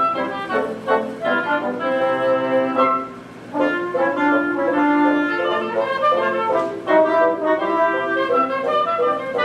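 Live orchestra playing, with wind and brass lines carrying the melody. The music briefly drops away about three seconds in, then resumes.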